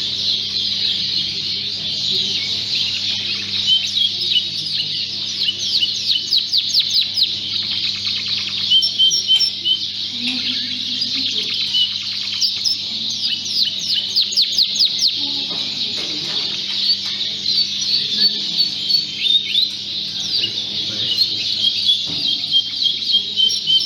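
Many Fife canaries singing at once in their show cages: a dense chorus of chirps and fast trills, with bursts of rapid repeated notes now and then.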